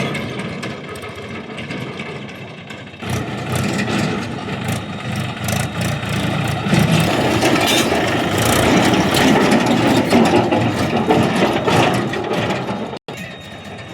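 Diesel engine of a JCB backhoe loader running under load while it works, with scattered knocks and clanks, growing louder in the second half. The sound changes abruptly about three seconds in and drops out briefly near the end.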